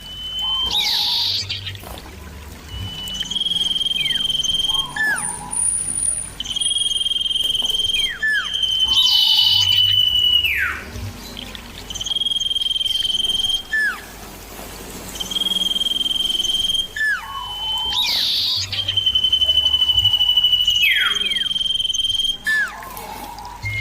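Common iora (cipoh) calling: a long, steady, high whistle held for one to two seconds, each ending in a quick downward slur, repeated every few seconds.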